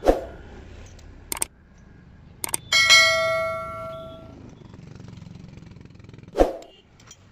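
Metal tools and engine parts being handled in a workshop: a knock at the start and a few light clicks, then a metallic clang about three seconds in that rings for over a second, and another knock near the end.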